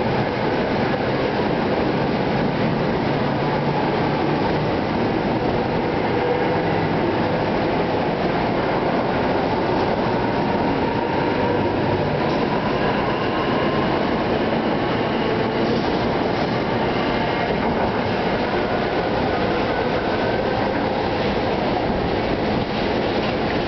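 NJ Transit Arrow III electric multiple-unit train pulling out and rolling past: a steady rumble of wheels on rail, with a faint whine that rises slightly in pitch partway through as it gathers speed.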